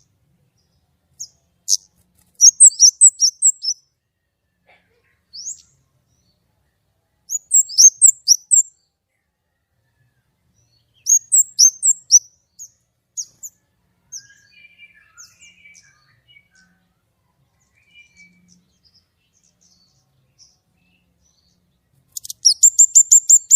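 A kemade songbird singing in loud bursts of rapid, very high-pitched chirps every few seconds. Softer, lower twittering comes in the middle, and a fast trill of repeated notes near the end.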